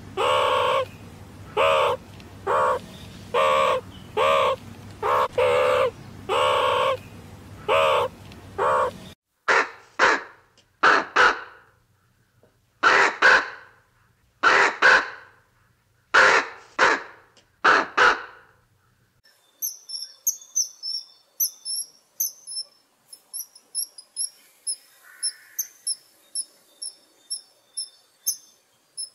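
A meerkat's calls, about a dozen short pitched calls evenly repeated with a low hum behind them, until about nine seconds in. Then a common raven croaking in groups of two or three harsh calls. From about twenty seconds, a common kingfisher's rapid, very high, thin piping calls.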